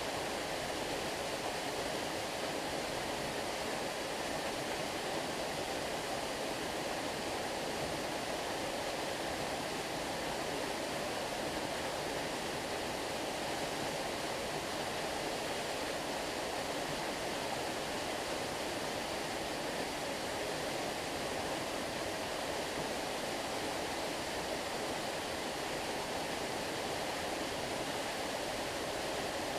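Stream water flowing, a steady even rush without change.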